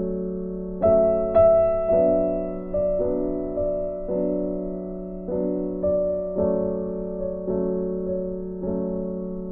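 Background music: a gentle piano or electric-piano tune, with notes struck about once a second over a sustained chord.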